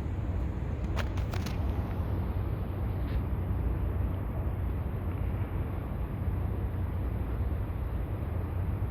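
Steady low rumble of outdoor harbour ambience at a ferry terminal waterfront, with a few faint clicks about a second in.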